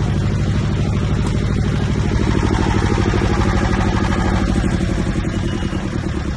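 25 kVA twin-cylinder diesel generator set in a soundproof acoustic enclosure, running steadily with a fast, even pulsing.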